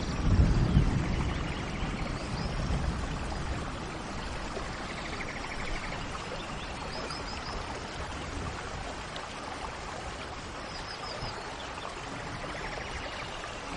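Steady rain falling, with a low rumble of thunder in the first second or two. Birds chirp briefly and repeatedly over the rain.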